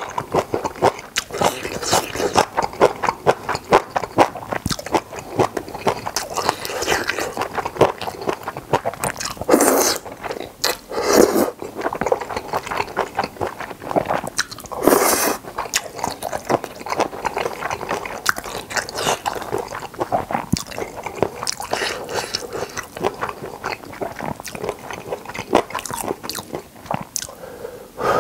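Close-miked eating of boneless chicken feet with Chinese glass noodles: rapid, wet chewing and biting clicks, with three louder, longer bursts in the middle.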